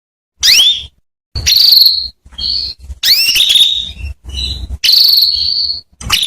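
Female canary calling: a quick series of short, high chirps that sweep upward in pitch, mixed with brief trills, broken by short silent gaps.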